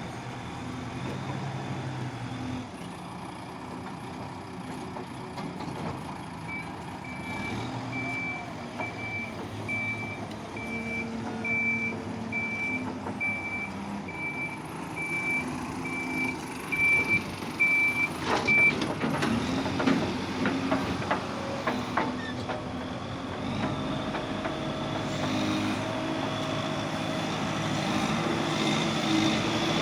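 A JCB digger's diesel engine running under work, its reversing alarm beeping at a steady pace for about twelve seconds. Just as the beeping stops, a quick run of sharp knocks and clanks follows, and then the engine runs on, a little louder toward the end.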